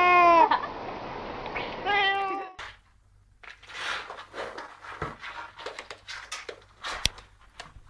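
A domestic cat meowing: a long drawn-out meow that falls in pitch and ends about half a second in, then a shorter meow around two seconds in. After that come quieter rustling and scattered clicks over a low hum.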